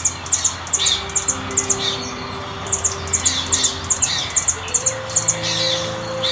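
Bird calling in rapid, very high-pitched chips, clustered a few times a second with a short pause about two seconds in, over soft background music with held notes.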